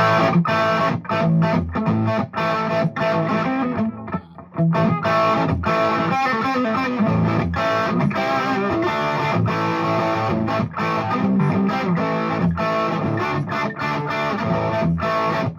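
Electric guitar, a chambered Gibson Les Paul Standard with unpotted Burstbucker pickups, played through a Fuchs Train-45 6V6 tube amp on its clean tone with the guitar's volume rolled way back. Picked notes and chords run on continuously, with a brief pause about four seconds in.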